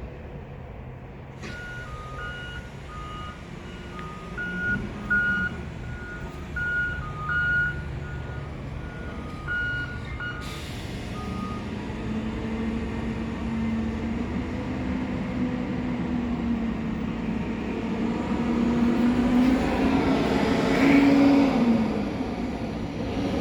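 Garbage truck's backup alarm beeping repeatedly for about nine seconds as it reverses, over its idling diesel engine. After the beeping stops, the engine runs up, rising in pitch and getting louder, and drops back shortly before the end.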